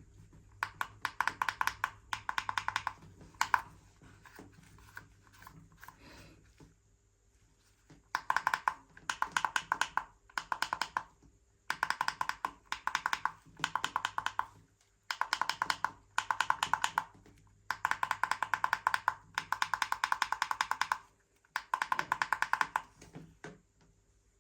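Radio-controlled toy car running in repeated short bursts, a rapid plastic clicking or rattling each time a control is worked, with quiet gaps between.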